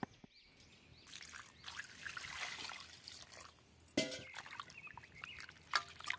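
Water trickling and pouring, swelling and fading over a couple of seconds, with a sharp knock about four seconds in and another near the end.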